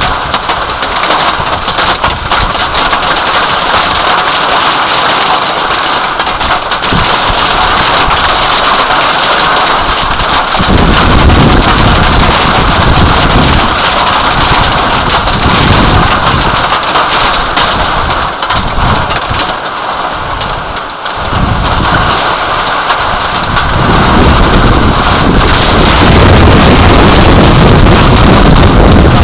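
Heavy thunderstorm rain pouring down, a dense loud hiss, with low rumbling surges of wind or thunder coming and going in the second half.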